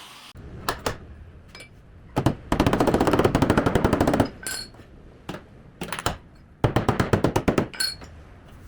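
A tool hammering very rapidly in two bursts, the first about a second and a half long and the second about a second, with scattered single clicks and knocks between them.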